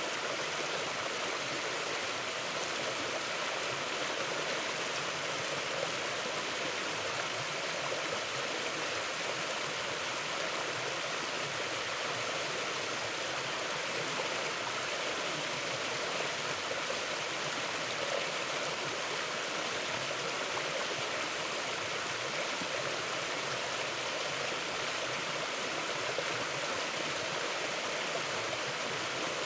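A mountain river flowing over rocks: a steady, even rush of water.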